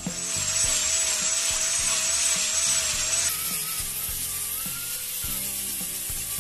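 Small high-speed electric power tool whining with a wavering pitch over a hiss of cutting into bamboo; the whine shifts in pitch about three seconds in. Background music plays underneath.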